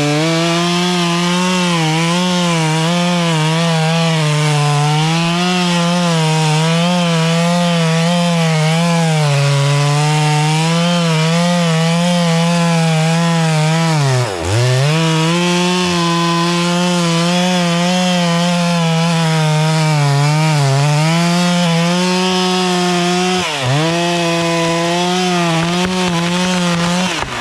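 Two-stroke chainsaw cutting through a tree trunk under load, its engine pitch wavering up and down as it bites. About halfway through and again near the end the engine speed drops sharply for a moment and picks back up.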